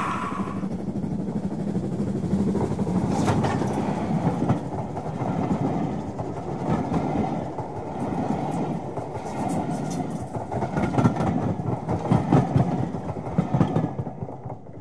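A train running past close by, its wheels clicking over the rail joints in an uneven rhythm, fading out near the end.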